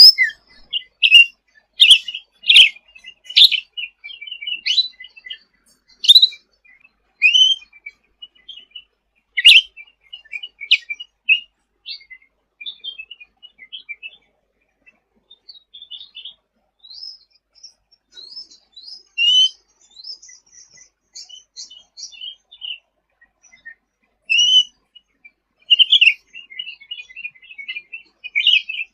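Cucak ranting (cucak rante) songbird singing hard: rapid bursts of short, high chirps and twittering trills, broken by brief pauses.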